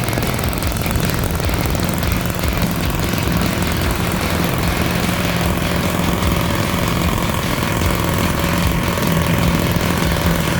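MUSA V2 single-cylinder model engine running steadily at high speed, with one even engine note.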